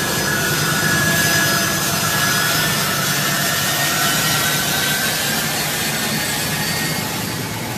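U.S. military transport aircraft's jet engines running, a steady loud drone with high whining tones, heard from inside the aircraft.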